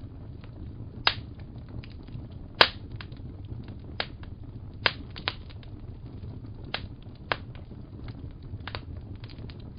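Wood fire crackling in a fireplace: irregular sharp pops and snaps, a few loud ones among many small ticks, over a steady low rumble of the burning fire.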